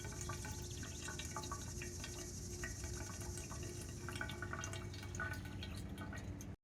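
Water dripping and trickling into a container from a pump-fed water filter: many quick, irregular drips over a steady high hiss.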